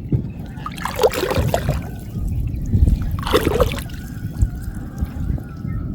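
Water splashing and trickling as a gill net is hauled up out of flooded field water, in two bursts about a second in and about three seconds in.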